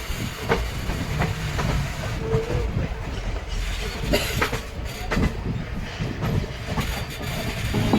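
Train running along the rails: a steady low rumble with irregular sharp clicks of the wheels passing over rail joints.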